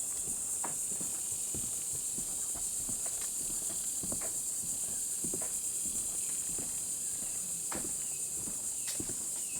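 Steady high-pitched insect chorus, with irregular footsteps on a trail and a few short falling chirps near the end.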